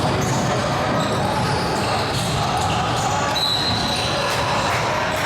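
Indoor basketball game sounds: a basketball bouncing on the court under a steady din of voices, with a short high tone about three and a half seconds in.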